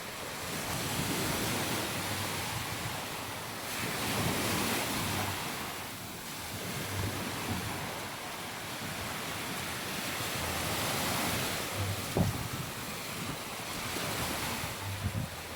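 Sea waves washing onto a sandy beach, the surf noise swelling and easing every few seconds, with wind buffeting the microphone and a sharp low bump about three-quarters of the way through.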